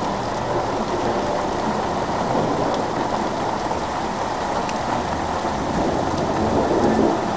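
Steady downpour of rain, an even hiss that swells briefly near the end.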